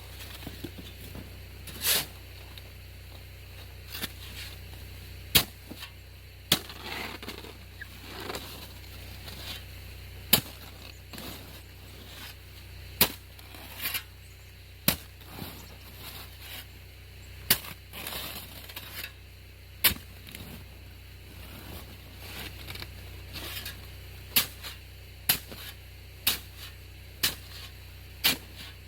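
Snow shovel chopping and scraping through hard, rain-crusted snow: sharp strikes every second or two, with scraping swishes between some of them.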